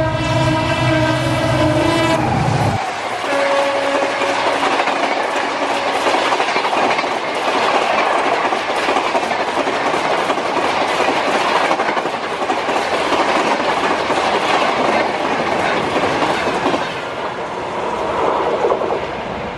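EMD diesel locomotive sounding its horn, a loud multi-tone chord held for nearly three seconds, then an express train rushing past at speed: a dense rushing noise with rapid clickety-clack of coach wheels over the rail joints, easing slightly near the end.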